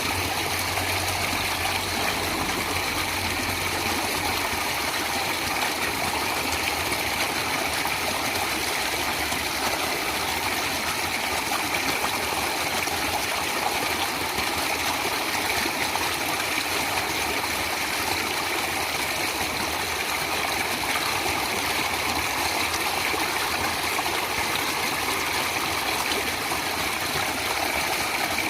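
Natural flowing water, a stream running with a steady, unbroken rush and splash.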